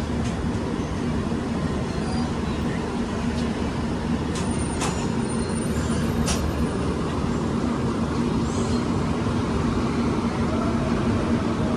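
Passenger train running: a steady rumble with a low hum throughout, and a few sharp clicks about four to six seconds in.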